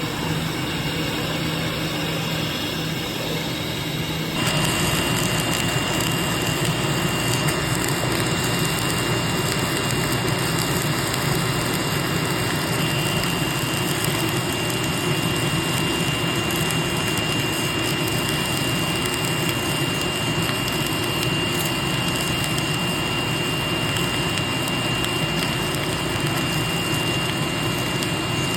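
Submerged arc welding setup running with a steady mechanical noise. About four seconds in it gets louder and a thin high steady whine starts, holding until near the end.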